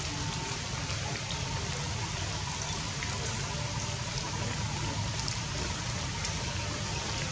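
Steady rain falling on forest leaves: an even, unbroken hiss of drops.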